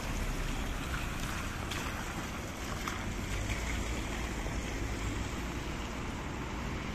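Steady wash of rain and traffic on wet pavement, with wind rumbling on the microphone.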